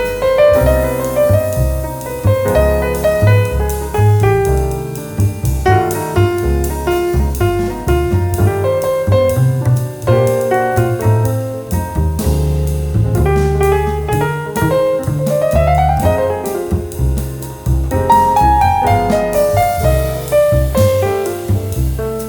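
Instrumental jazz with the piano leading in quick runs that climb and fall, over a bass line and light drums.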